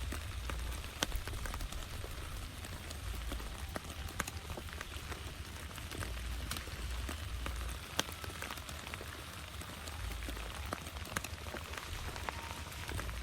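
Rain falling steadily, with many sharp individual drops ticking on a nearby surface, and a low rumble that comes and goes underneath.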